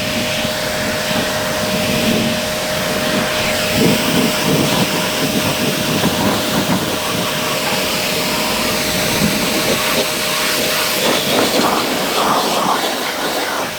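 Steady hissing noise with a faint steady hum under it; the hum cuts off about eleven seconds in while the hissing goes on.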